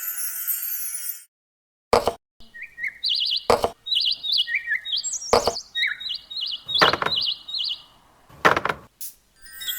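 Small birds chirping in quick repeated phrases, with sharp knocks like small wooden parts being set or tapped down every second or two. A brief high, chime-like shimmer opens the stretch.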